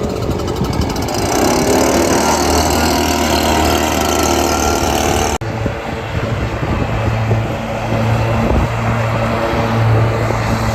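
Small gasoline engines of lawn equipment running. About five seconds in the sound cuts abruptly to a lower, steadier engine hum.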